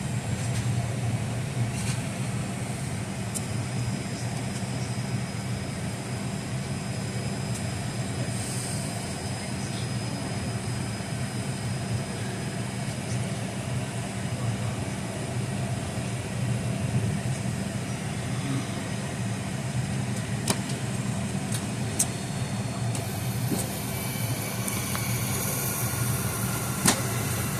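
Steady low hum of the ventilation and air-conditioning airflow inside a Boeing 757-200 passenger cabin before departure, with a few faint clicks near the end.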